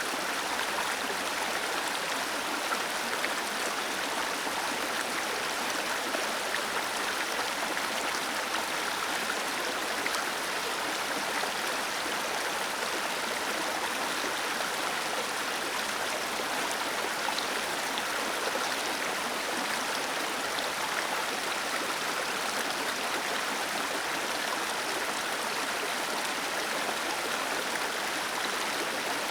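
Small waterfall cascading over rocks: a steady, even rush of falling water with fine splashing and no change throughout.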